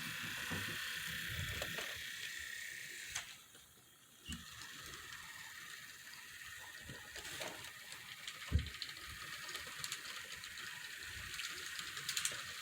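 Model train locomotive running on the track: its small electric motor and gears whir steadily, with scattered clicks of wheels over the track. The whir cuts out for about a second around three seconds in, then starts again.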